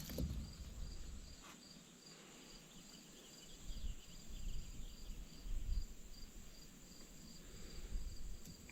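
Crickets chirping steadily, an even pulse about three times a second, with a few faint low bumps underneath.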